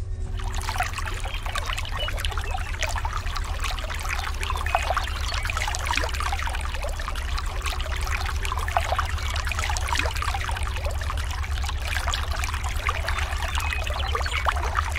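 A small stream of water trickling and splashing steadily, with many tiny spatters, over a steady low hum.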